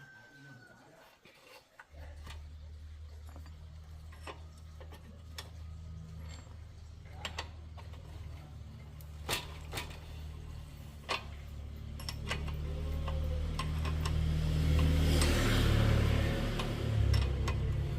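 A motor starts about two seconds in and runs with a steady low hum, growing louder toward the end, with scattered sharp clicks over it.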